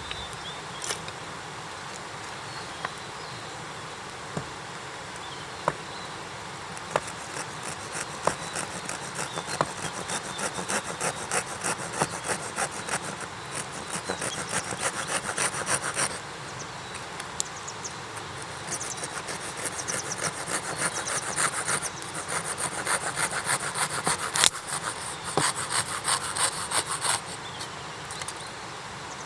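Hand saw cutting through a piece of wood in rapid back-and-forth strokes, in two runs of several seconds each with a short pause between them.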